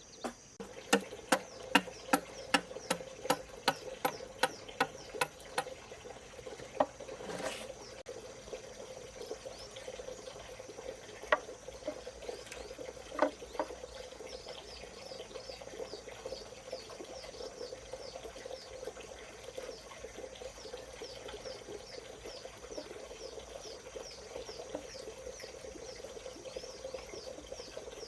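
Water running steadily, after a run of sharp knocks at about two a second in the first several seconds.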